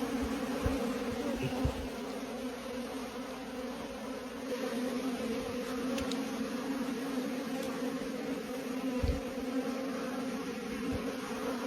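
Many bees buzzing together in a steady, dense hum, with a few brief low thumps.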